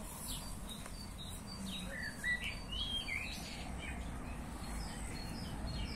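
Small songbirds chirping: a string of short high notes and quick rising and falling whistles, busiest from about two seconds in, over a steady low background rumble.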